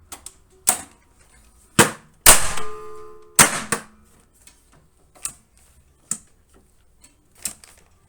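Hyundai HGN25 air circuit breaker's spring-operated mechanism being worked and tripped by hand: a series of sharp mechanical snaps and clacks in the first few seconds, the loudest with a short metallic ring, followed by lighter clicks.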